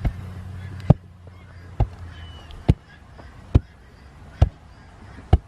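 Sharp knocks evenly spaced about once a second, over a steady low hum.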